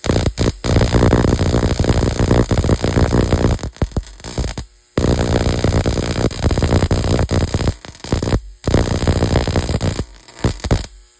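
Homemade high-voltage rig arcing: a loud, buzzing crackle of rapid repeated sparks in three long bursts, with short pauses between them.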